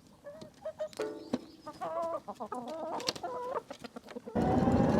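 Domestic chickens clucking, a string of short wavering calls. About four seconds in, a loud steady noise cuts in abruptly.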